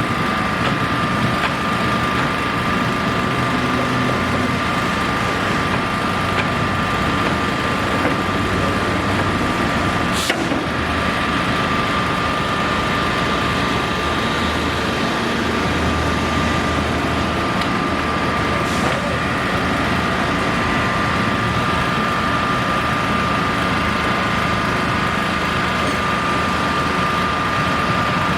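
An engine running steadily, with a constant high whine over a low rumble; two brief clicks are heard, about ten and nineteen seconds in.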